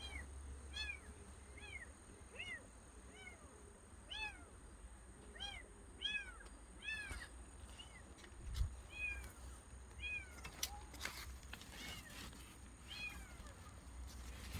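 Kitten mewing over and over, thin high-pitched mews coming about once a second: the distress calls of a kitten that has fallen and cannot climb back up.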